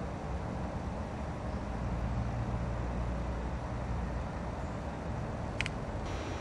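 Steady low outdoor rumble, with one short sharp click near the end.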